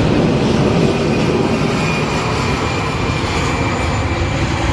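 Jet airliner's engines running loudly close by: a steady rush of noise with deep rumble and a faint high whine.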